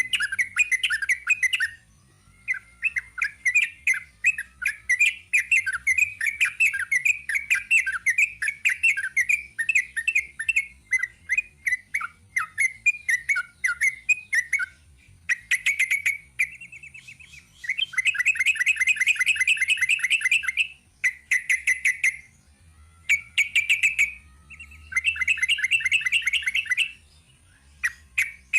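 Yellow-vented bulbul (trucuk) singing a long, rapid chattering song: an unbroken stream of quick notes for about fifteen seconds, then bursts of one to three seconds with short pauses between.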